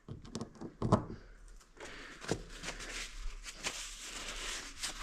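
Chain roller handled with a couple of clicks, then spun by hand, giving a steady rough whirring with small ticks; its bearings are probably shot.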